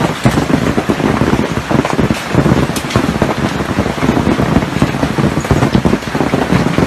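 Heavy rain driven by strong wind, a loud steady rush with gusts buffeting the microphone and scattered sharp taps of drops striking a surface.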